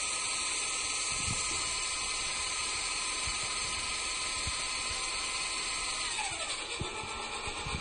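Small electric main motor and balsa rotor blades of a home-built RC helicopter running at a steady high-pitched whir on a weak battery, then winding down in pitch about six seconds in.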